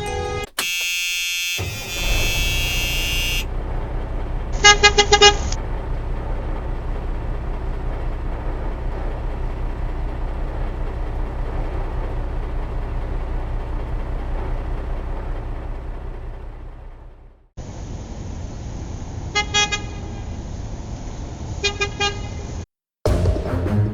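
Vehicle sound effects: a low engine rumble running steadily, with a horn honking in a quick run of short toots about five seconds in and again twice near the end. A brief high-pitched effect sounds just before the engine starts.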